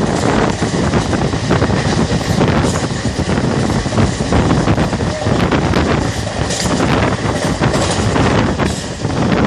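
Wind buffeting the microphone held out of a moving passenger coach, over the steady running noise of the coach's wheels on the rails. The noise is loud and continuous, with irregular gusts.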